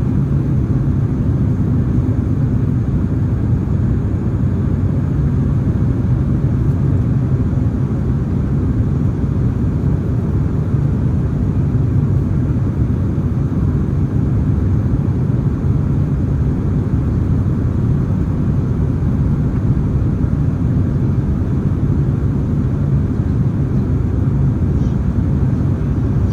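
Steady low rumble of cabin noise inside a Boeing 767-300ER airliner in flight, with engine and airflow noise running evenly and no change in pitch or level.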